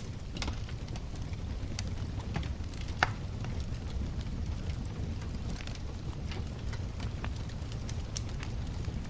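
Wood fire crackling, with scattered sharp pops and one louder crack about three seconds in, over a steady low rumble.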